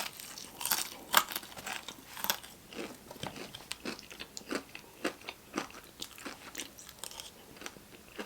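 A person biting and chewing crunchy Popeyes fried food close to the microphone, a run of irregular sharp crunches. The crunches are loudest in the first couple of seconds and then settle into softer, quicker chewing.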